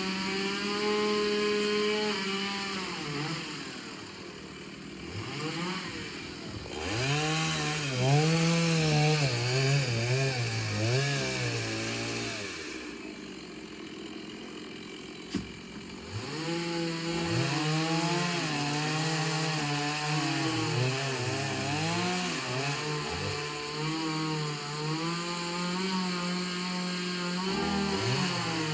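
Chainsaw engine running, revving up and falling back again and again. It drops to a lower idle about four seconds in and again for a few seconds past the middle, with one sharp click during the second lull.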